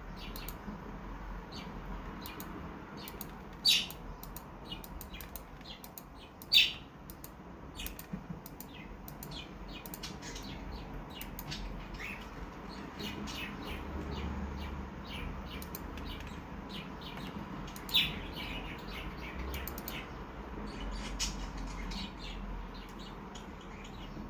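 Cockatiel making many short, sharp chirps and clicks, with three louder calls about 4, 7 and 18 seconds in.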